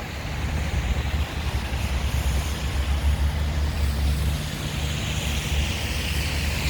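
City street traffic: vehicle engines running low and a steady hiss of tyres on the road, with a vehicle passing and swelling in hiss near the end.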